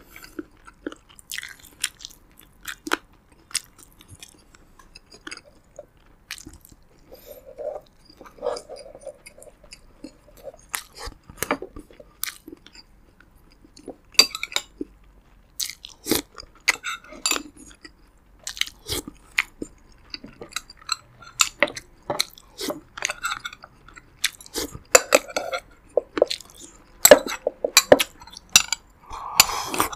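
Close-up chewing and crunching of a roasted pigeon and rice meal, in irregular bites that come thicker and louder in the last few seconds.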